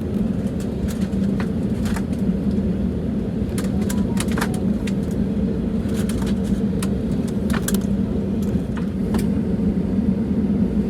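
Airbus A320neo cabin noise while taxiing on the ground: a steady low hum and rumble with many short clicks and rattles scattered through it.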